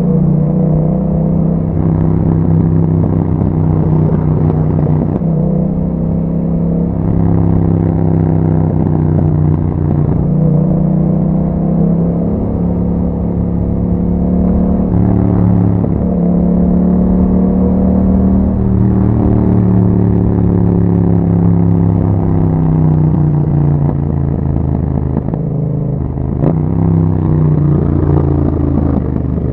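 Yamaha MT-07's 689 cc parallel-twin engine running under way through an Akrapovic exhaust. Its note rises and drops several times as the bike accelerates and changes gear.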